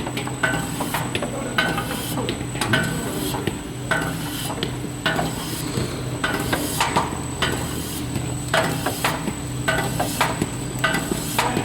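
ZP-15D rotary tablet press running while it presses large dishwasher tablets. A steady motor hum and a thin high whine sit under a continuous irregular clatter of sharp clacks, a few each second.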